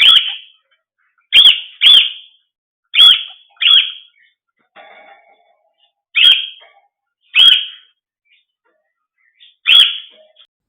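Pet bird giving eight short, loud, shrill calls at uneven intervals.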